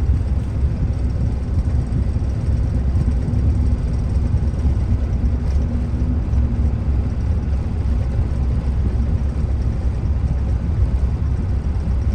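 Steady road and engine noise of a car driving, heard from inside the cabin: an even low rumble, with a faint steady hum that fades out about seven seconds in.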